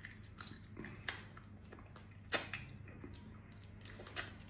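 Faint eating sounds from steamed giant isopod legs being chewed, with a few short sharp clicks of shell. The loudest click comes about two seconds in.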